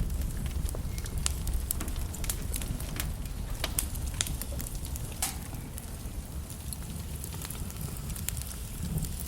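Logs burning in a fireplace, crackling with frequent sharp pops over a steady low rumble of the flames.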